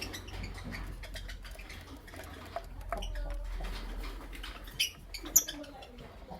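Lovebirds moving about, with many small clicks and scratching sounds of beaks and feet. Near the end come two short, sharp chirps, the second the loudest.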